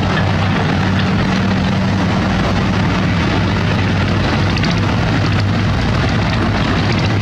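Diesel engine of heavy construction equipment running steadily at an even pitch, with a wide mechanical noise over it.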